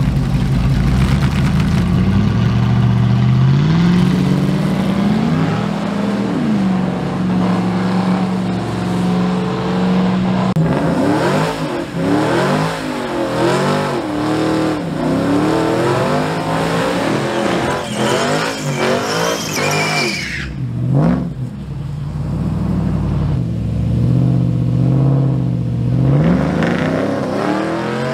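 Drag-racing vehicle engines revving: an engine held at raised revs, its pitch climbing and wavering. About twenty seconds in it rises to a high whine and cuts off sharply. Another engine revs up near the end.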